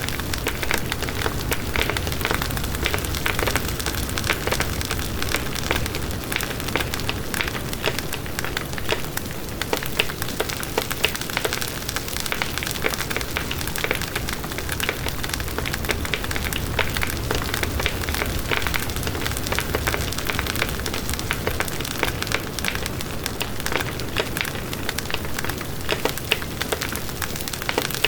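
Campfire burning with a steady dense crackle and scattered sharp pops.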